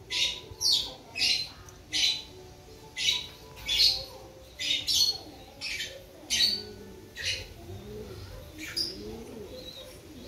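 A small bird chirps sharply and repeatedly, short falling notes about one or two a second that thin out near the end. Beneath them a pigeon coos in low, arching notes, mostly in the second half.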